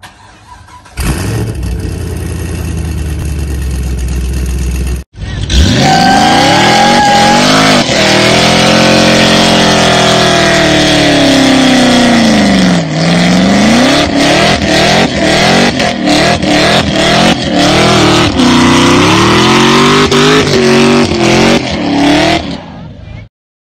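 Fifth-generation Chevrolet Camaro engine running steadily for a few seconds, then, after a cut, revved hard through a burnout: the engine note sweeps up, holds high, dips about halfway and climbs again, with many brief breaks in the sound in the second half, until it cuts off suddenly near the end.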